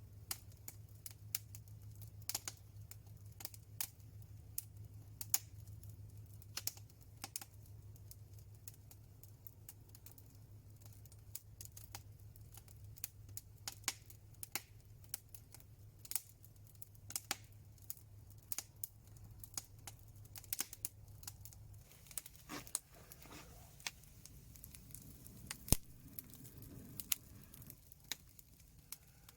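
Wood fire crackling with irregular sharp pops and snaps, a few a second, over a low steady hum that stops about three-quarters of the way through.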